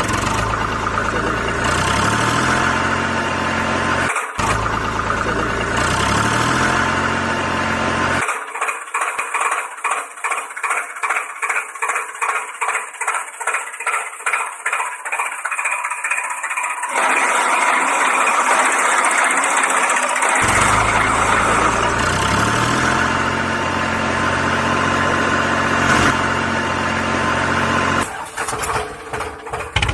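Engine running steadily at idle, with several abrupt cuts. In the middle stretch there is a rhythmic pulsing sound, about two pulses a second, with no low end.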